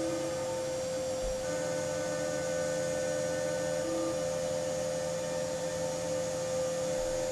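A steady electric hum: one strong unwavering tone with fainter tones above it.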